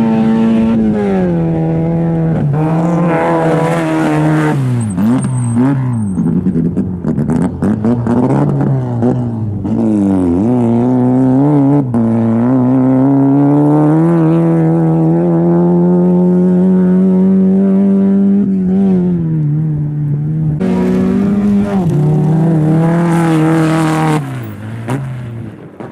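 Rally car engines revving hard on a dirt and grass stage, one car after another, the pitch climbing and dropping again and again with gear changes and lifts off the throttle. The engine sound fades away near the end.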